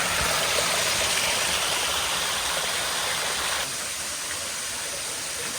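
Waterfall: water pouring and splashing as a steady rushing noise, becoming a little quieter and duller about three and a half seconds in.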